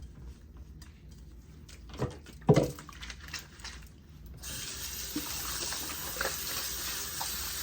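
A couple of short knocks or splashes from handling, then water starts running from a tap into a sink about four and a half seconds in and keeps flowing steadily.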